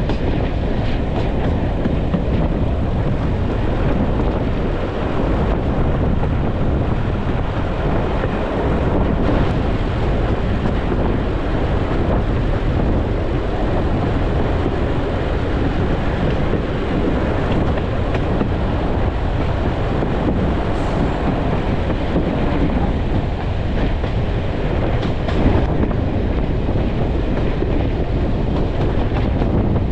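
Passenger coaches of a diesel-hauled heritage train running along the line, heard from a coach window: a steady rumble of steel wheels on the rails with some faint clicks over the joints, and wind on the microphone.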